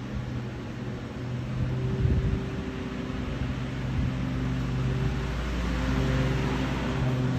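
A motor vehicle's engine running with a steady hum, the sound growing louder toward the end.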